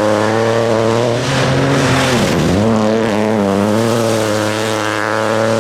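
Rally car engine held at high revs, its pitch steady except for a sharp brief dip about two seconds in, after which it picks straight back up.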